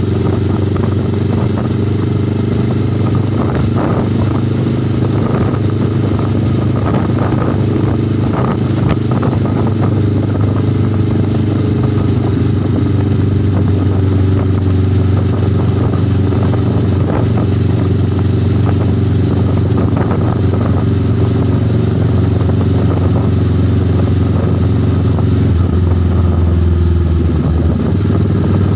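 Motorcycle engine running steadily at an even pace, with some clattering in the first several seconds and a shift in the engine note near the end.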